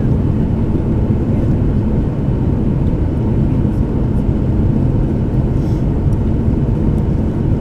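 Steady low rumble of a Boeing 737-800's CFM56-7B jet engines, holding an even level.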